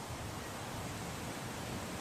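Steady outdoor background hiss, even throughout, with no clear bird calls.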